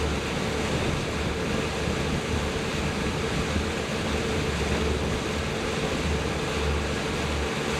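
A boat's motor running steadily under way, with a steady hum over an even rush of noise and a low rumble that swells and fades.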